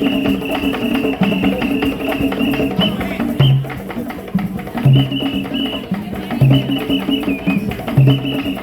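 Live drum troupe playing a fast, dense drum rhythm, with short held notes repeating over the beat.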